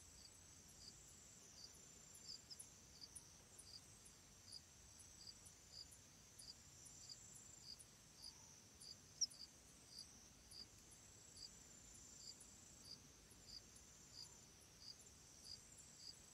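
Faint crickets chirping in a steady rhythm, about two high chirps a second, over a continuous high trill. A single brief click comes about nine seconds in.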